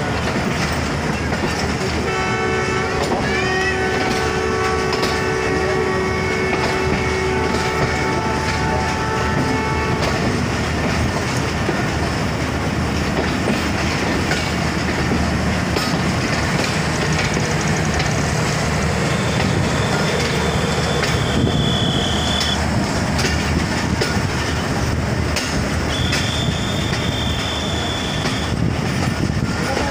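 Train running on the rails with a steady rumble and wheel clatter. About two seconds in a long multi-note horn sounds for roughly eight seconds, and two brief high squeals come later.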